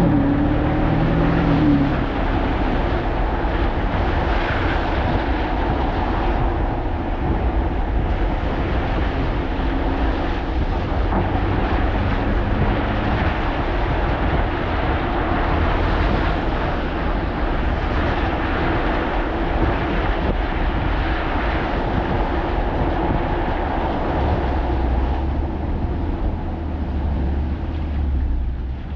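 Alpina XB7's twin-turbo V8 rising in pitch as the SUV accelerates for about the first two seconds, then steady driving noise of engine rumble and tyre and road noise.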